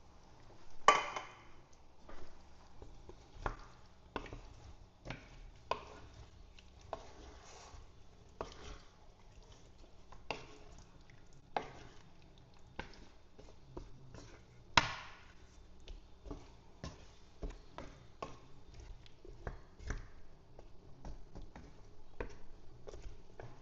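Irregular knocks and clicks of kitchen utensils, roughly one every half second to a second, with two louder strikes: one about a second in and one a little past the middle.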